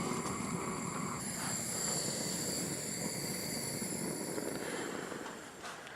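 Soldering torch flame running with a steady rushing hiss, heating a copper pipe joint to re-solder it; it dies away near the end.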